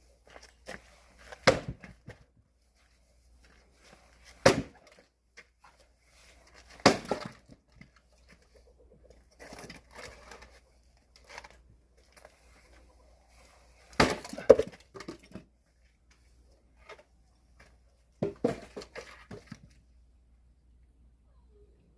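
Axe splitting firewood: about five or six heavy blows a few seconds apart, two of them in quick succession about two-thirds of the way through, with fainter cracking and knocking between them.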